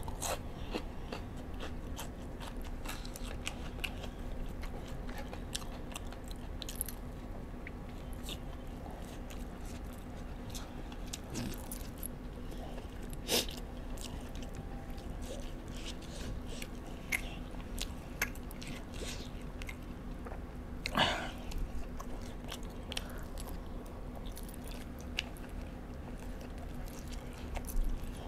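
Close-up chewing and biting of french fries and fried chicken wings: a steady run of small mouth clicks and crunches, with two louder mouth sounds about 13 and 21 seconds in.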